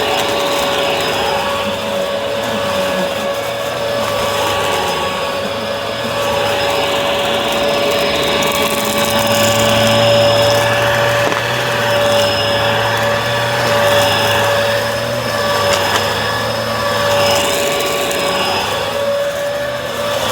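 Bissell vacuum cleaner running steadily, its motor giving a constant whine over rushing air, with a lower hum that strengthens midway and fades again.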